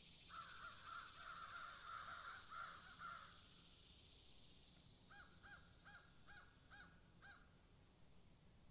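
Faint bird calls: a quick run of notes for about three seconds, then a series of about seven separate calls a third of a second apart, over a steady faint high hiss.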